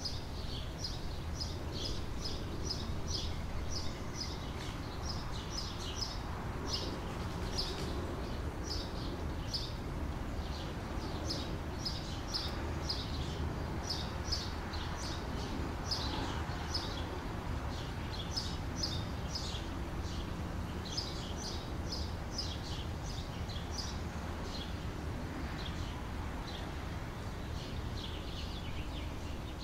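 Outdoor ambience of small birds chirping continually in quick clusters of short, high calls, over a steady low background rumble.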